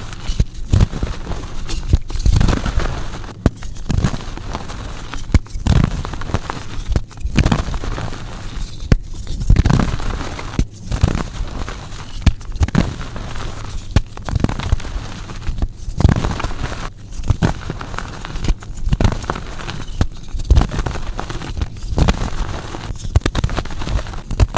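Blocks of gym chalk being crushed and crumbled, repeated crunches with a continuous crackle between them.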